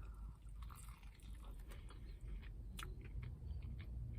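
Close-up chewing of a mouthful of food, with soft wet mouth clicks and smacks scattered throughout and one sharper click about three seconds in.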